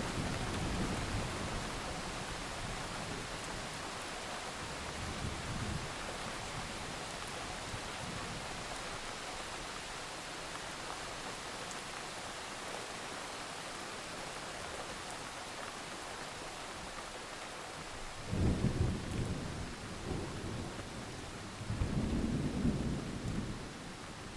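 Steady rain with thunder. A low rumble dies away over the first few seconds, then two rolls of thunder come close together near the end, the loudest sounds here.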